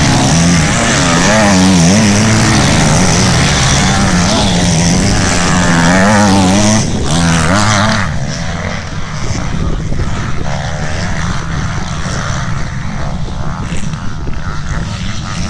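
Motocross motorcycle engines revving hard, the pitch rising and falling with the throttle, for about eight seconds. Then the nearest bike drops away and a quieter, rougher engine noise remains.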